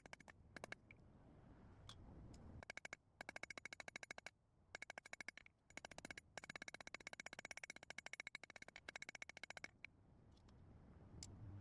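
Hammer blows on steel at the anvil, drawing out a piece of spring steel into a flare. The strikes ring and come very fast in several long runs with short pauses between them.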